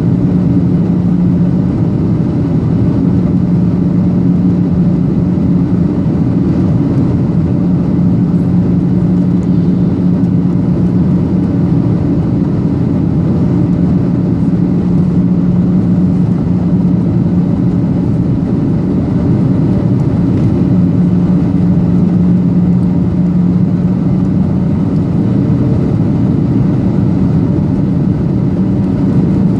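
Steady cabin drone of a Boeing 737-800 in flight, heard from inside the cabin: the CFM56-7B turbofans hum low and steady beneath the rush of airflow over the fuselage.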